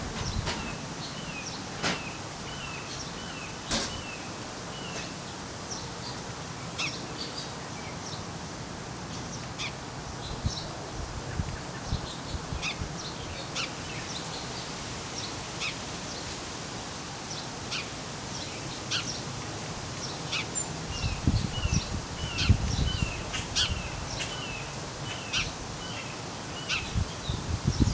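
Small birds chirping with many short, high calls over a steady background hiss, joined by low rumbling thumps a little past two-thirds of the way through.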